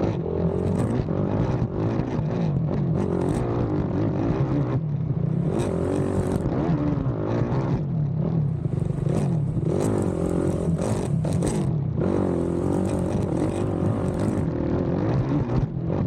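Race ATV engine revving up and down hard as it is ridden through a cross-country track, heard from on board, with short bursts of rattle and noise throughout.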